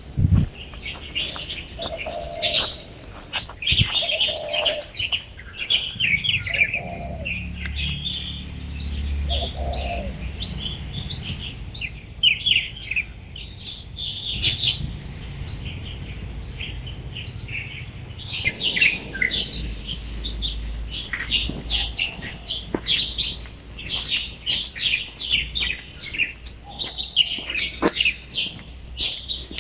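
Several birds chirping and singing at once in quick, overlapping high calls and trills, with a few lower calls in the first third, over a faint low rumble.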